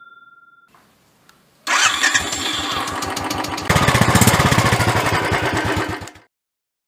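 Motorcycle engine starting up about two seconds in and running with an even, pulsing beat, getting louder about two seconds later, then cutting off abruptly.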